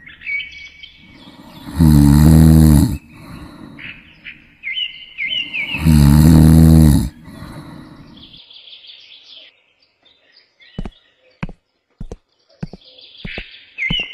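A deep, loud cartoon snoring effect, two long snores about four seconds apart, with birds chirping in between. A few short sharp clicks come near the end.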